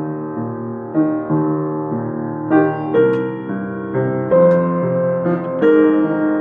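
Solo piano improvisation: slow, sustained chords, a new chord struck roughly every second, the notes reaching higher from about halfway through.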